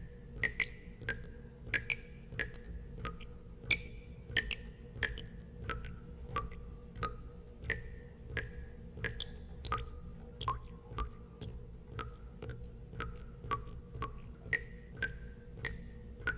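Water drops falling one after another into water, each a short click with a brief pitched plink that varies from drop to drop. They come about one or two a second at uneven intervals, over a steady low hum.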